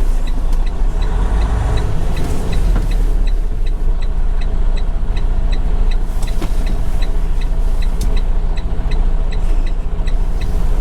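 Semi truck's diesel engine running steadily at low speed while being parked, with a regular ticking of about three per second from about three seconds in.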